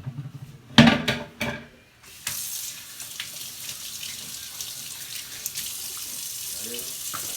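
A few clattering knocks of kitchenware, then a kitchen tap is turned on about two seconds in and water runs steadily into the sink.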